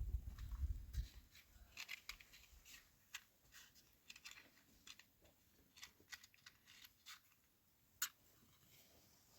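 Faint, scattered clicks and light scraping, like small objects being handled, with one sharper click near the end. There is a low rumble and thudding in the first second.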